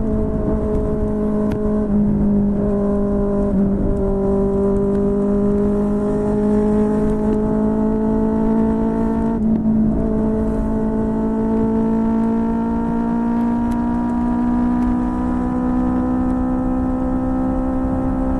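QJMotor SRK600's 600 cc inline-four running through a Yoshimura R11 exhaust under way, its engine note climbing slowly and steadily, with a short step in pitch about nine and a half seconds in.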